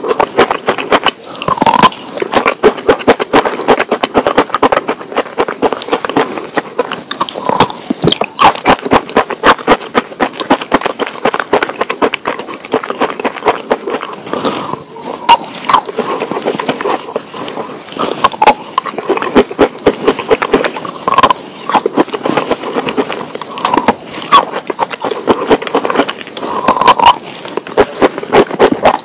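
Close-miked crunching and chewing of a brittle, crispy food: dense, rapid crackles with louder crunches at each bite.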